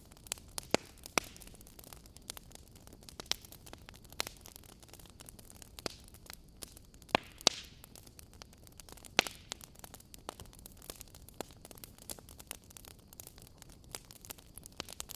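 Wood fire in a fireplace crackling: irregular sharp pops and snaps over a soft steady hiss, with a few louder pops about a second in, around seven seconds in and near nine seconds.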